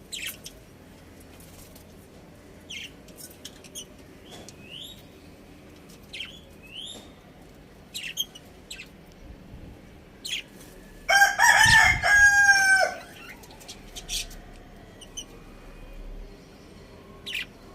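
A rooster crowing once, about 2 s long, starting about 11 s in. Scattered short, high bird calls and chirps come before and after it.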